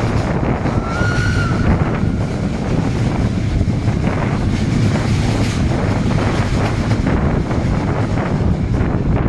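Rhaetian Railway train running, its wheel and running noise heard through an open window with heavy wind buffeting on the microphone. A brief high-pitched whine sounds about a second in.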